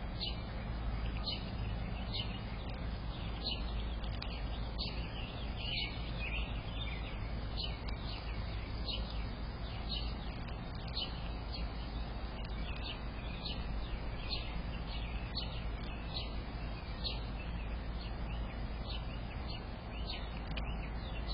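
Birds chirping: short falling chirps repeated one or two a second, over a steady low hum from the camera's microphone.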